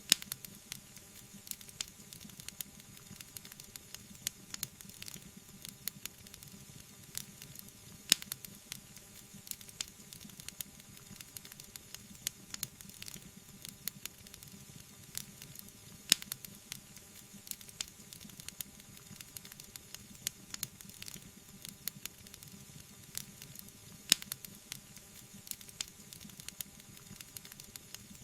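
Wood fire crackling: a dense run of small snaps and pops over a soft, steady rush, with four sharper pops spaced about eight seconds apart.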